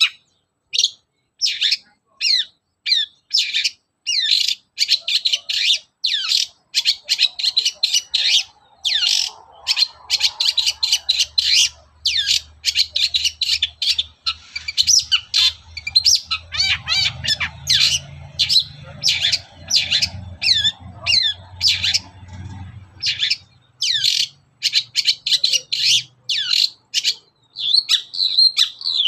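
Long-tailed shrike (cendet) singing a fast, chattering string of short scratchy notes and quick downward-sweeping whistles, broken by brief pauses.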